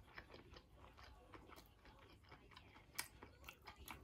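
A person chewing a mouthful of fried chicken sandwich, faintly, with scattered small wet clicks and crunches; the loudest crunch comes about three seconds in.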